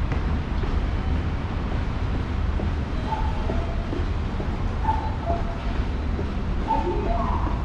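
Kyoto Municipal Subway Tozai Line train running in the underground station, a steady low rumble with rail noise. From about three seconds in, short higher tones come and go over it.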